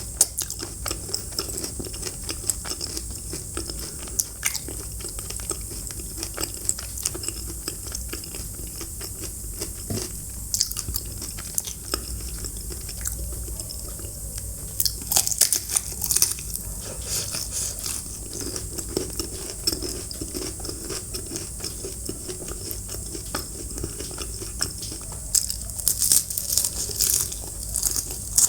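Close-miked eating: a person biting and chewing crisp, crunchy food, a steady run of small crunches with louder clusters of crunching around the middle and near the end.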